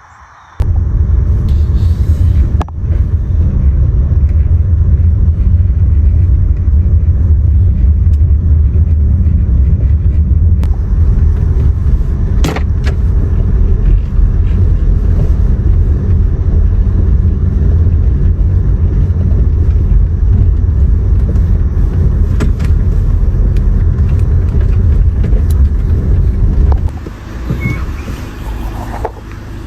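A loud, steady low rumble, like a motor vehicle running, that starts suddenly about half a second in and falls away a few seconds before the end.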